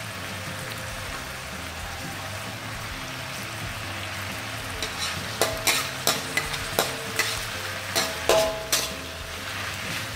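Sliced beef sizzling in hot oil in a metal wok. About halfway in, a spatula stirs it, knocking and scraping against the wok in a run of sharp clanks that lasts about four seconds.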